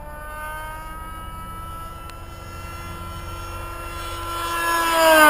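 Nitro-fuelled RC model airplane engine whining at full throttle during a high-speed pass. It grows louder as the plane approaches, peaks near the end and drops in pitch as it goes past.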